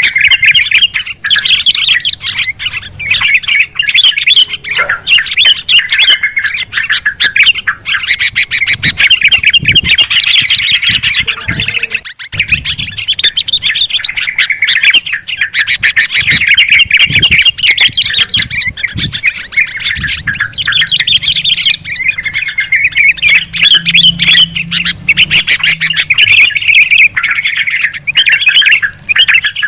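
Bulbuls (yellow-vented and sooty-headed) chattering and calling noisily in a dense, unbroken mass of fast overlapping calls, as a bird-lure recording.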